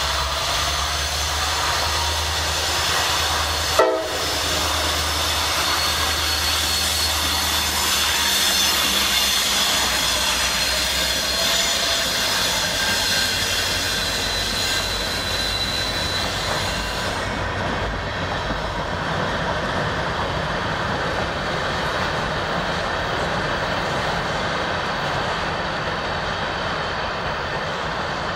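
Norfolk Southern diesel freight locomotive passing slowly with a steady low engine rumble, followed by its cars rolling by with steady wheel-on-rail noise. A single sharp knock about four seconds in, and a thin high wheel squeal briefly around the middle.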